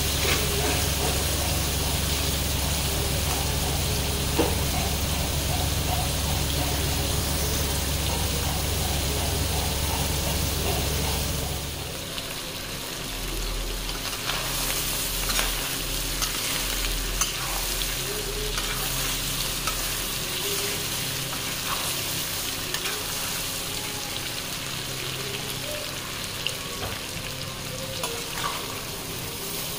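Chicken pieces sizzling and frying in oil in a metal wok, with a metal spatula stirring and scraping the pan in scattered clicks and scrapes. A low hum under the sizzle stops abruptly about twelve seconds in, and the sound drops slightly in level there.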